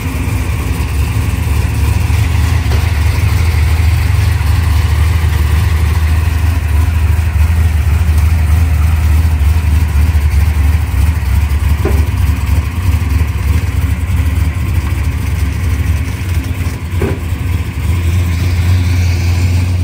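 Naturally aspirated big-block V8 of a 1969 Camaro drag car idling with a steady low rumble. There are two short clicks, one just past halfway and one later on.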